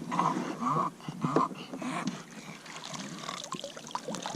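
A bulldog making several short vocal sounds in the first second and a half while going at the boat anchor, followed by quieter scuffling and a few light clicks.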